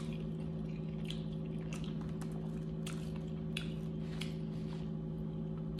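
Close-up chewing of chicken wings: wet, squishy mouth sounds with small scattered clicks, over a steady low hum.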